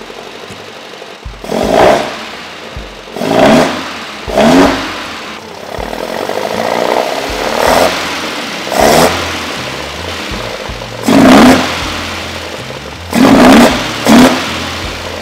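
Alfa Romeo 105 Spider's twin-cam four-cylinder engine on freshly synchronised twin Weber DCOE 40 carburettors, running and blipped by hand at the throttle linkage: about eight sharp revs, each falling back to idle.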